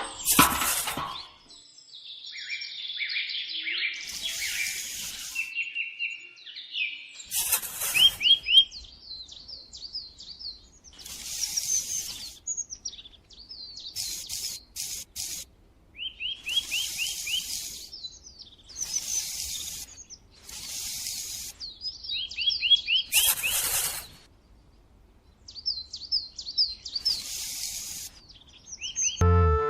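Small birds chirping in quick repeated series of short notes, with a short rasping, scraping noise breaking in every few seconds.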